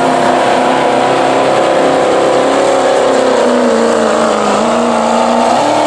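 Modified street diesel pickup truck's engine running hard under load, pulling a weight-transfer sled. The loud, steady engine note sags a little in pitch partway through and climbs again near the end.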